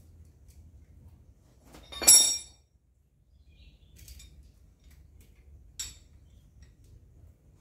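Metal parts clinking while being handled: one loud ringing clink about two seconds in, then two lighter clicks.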